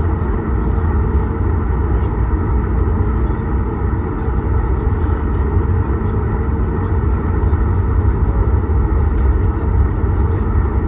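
Steady low rumble of a Boeing 737 MAX 8 heard from inside the passenger cabin, with a faint steady hum over it.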